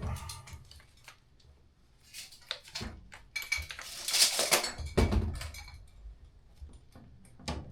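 Metal clinks and knocks of tools and metal parts being handled during HVAC installation work, with a longer scraping rustle about four seconds in.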